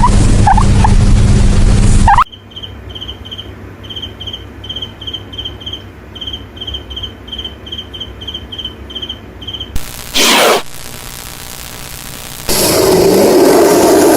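A series of high, even chirps, about four a second, for several seconds. Before it and after it are louder, noisy stretches of other animal-clip sound.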